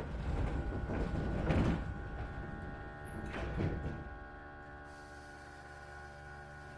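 Passenger sliding doors of a stationary Iyotetsu 3000 series electric train car working, with two thuds about a second and a half and three and a half seconds in, over the steady hum of the car's onboard equipment.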